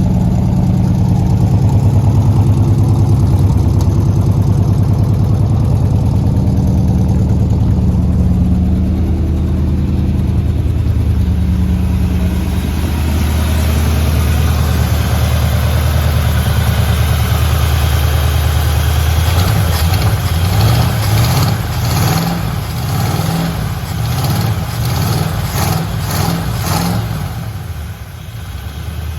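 1970 Chevrolet Monte Carlo's V8 engine idling steadily, then revved in a quick series of short blips for several seconds before dropping back to idle near the end.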